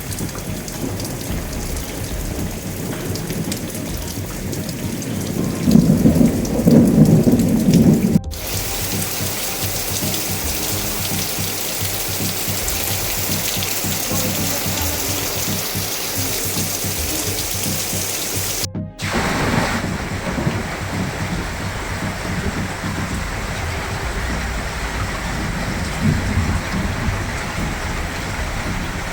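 Heavy rain from a Kalbaisakhi (nor'wester) thunderstorm falling steadily, with a loud low rumble of thunder about six seconds in and a fainter one near the end. The sound breaks off abruptly twice where the storm clips are cut together.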